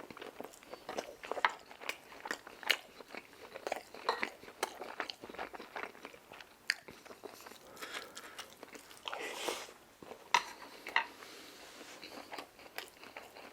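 Close-miked eating: a person biting and chewing crispy fried food, a run of short crunches and wet mouth clicks spread irregularly through the pause.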